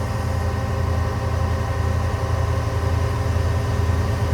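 Air compressor on a 2006 Peterbilt 335 mechanic's truck running with the truck's diesel engine, a steady low drone while it builds air pressure.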